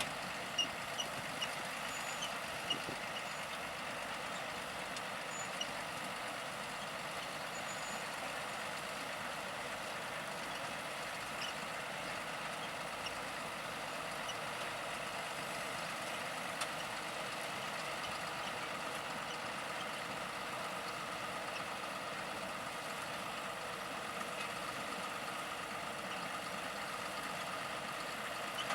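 John Deere 7930 tractor's diesel engine and a Grimme SE 170-60 twin-row potato harvester running steadily as they work. A few short, sharp clicks are heard in the first few seconds and once more about halfway through.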